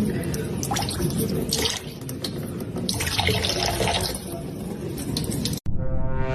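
Water running and splattering, like a tap into a sink, with scattered small clicks. Near the end it cuts off abruptly and a sustained pitched tone begins.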